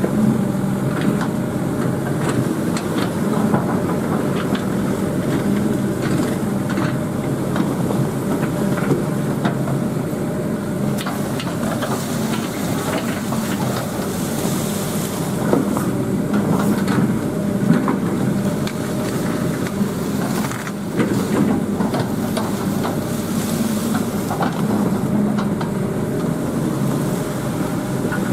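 Excavator's diesel engine running steadily while it works, with scattered sharp cracks and knocks throughout and a short hiss about halfway through.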